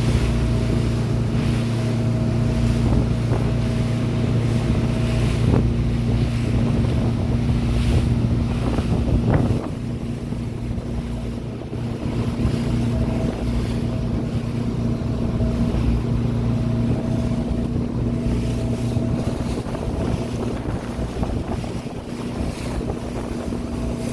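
Motorboat engine running with a steady hum, wind buffeting the microphone and water noise over it; the level drops a little about ten seconds in.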